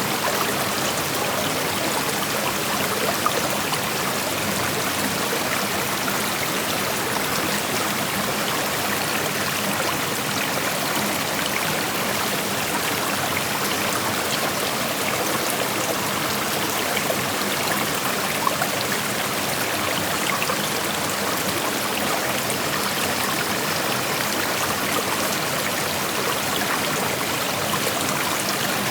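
Creek water flowing and rushing over stones, a steady, even sound with small trickling and splashing detail.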